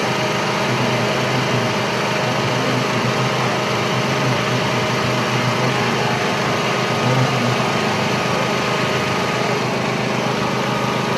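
Race car engine idling steadily, with a small swell in level about seven seconds in.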